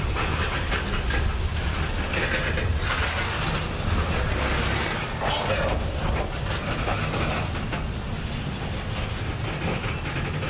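Heavy freight train rolling past, a steady low rumble with the rolling noise of the cars on the rails.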